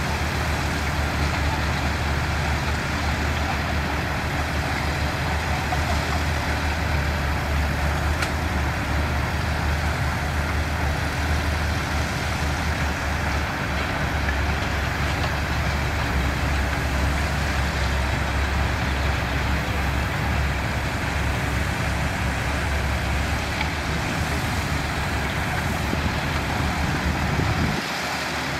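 Diesel engines of heavy construction machinery running steadily at an even pitch, with a deep low rumble under a wide mechanical noise. The level drops briefly near the end.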